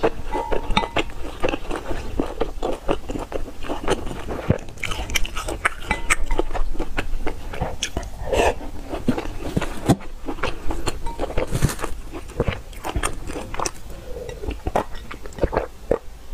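Close-miked chewing and biting of soft youtiao soaked in soy milk: wet mouth sounds with many small clicks and smacks throughout.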